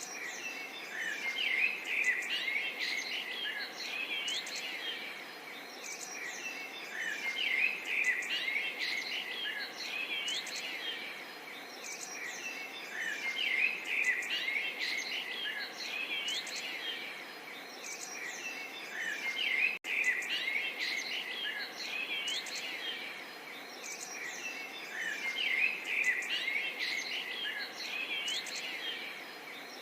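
Several songbirds chirping and singing continuously in quick overlapping calls, over a steady faint background hiss. The sound briefly cuts out about two-thirds of the way through.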